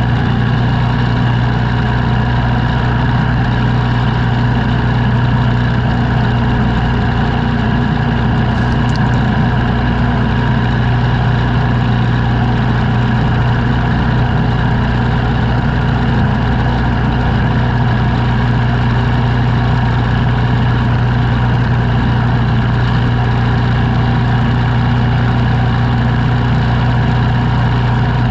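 Engine running steadily at an unchanging speed, a loud even drone with no revving.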